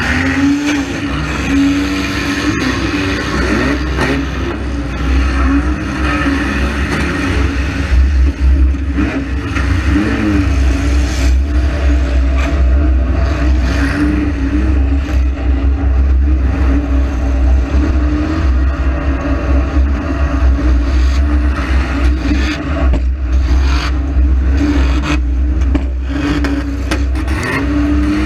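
Saturn's engine revving up and down in a demolition derby, heard from inside the car over a heavy low rumble. Repeated knocks, bangs and scraping of car bodies colliding, more frequent in the second half.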